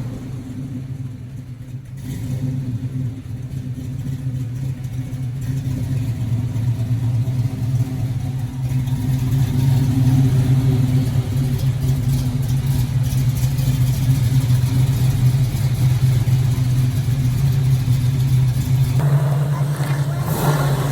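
Chevrolet 350 V8 running at a steady speed, its pitch holding level; the sound grows louder over the first several seconds.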